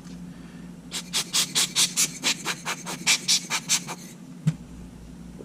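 A quick, even run of about fourteen rubbing strokes over some three seconds, starting about a second in, on a sand-fouled Sony A7 camera body; a single knock follows near the end.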